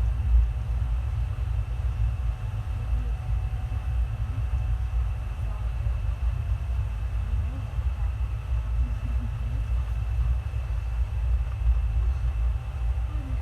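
Indian Railways express train running: a steady low rumble with no distinct wheel clacks standing out.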